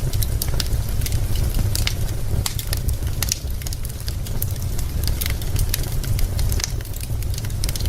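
Wood fire crackling in a fireplace: frequent, irregular sharp pops and snaps of burning logs over a steady low rumble.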